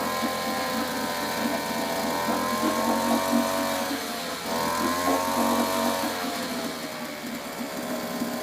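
1963 British Seagull 40 Plus longshaft outboard's single-cylinder two-stroke engine running. Its speed wavers, dipping sharply about four seconds in, picking back up, then sagging more slowly near the end.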